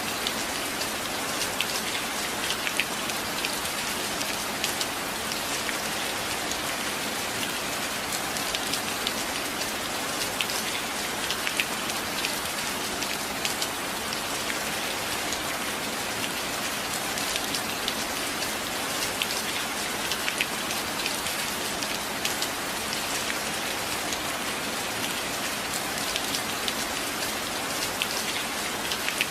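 Steady rain: a dense, even hiss speckled with many small drop impacts, holding level throughout.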